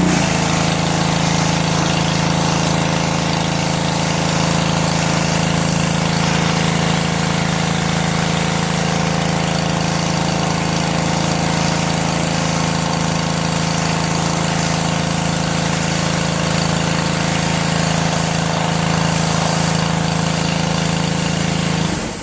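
Engine-driven pressure washer running steadily at about 180 psi, its jet spraying onto patio grout joints with a dense hiss over the engine hum. It cuts off shortly before the end.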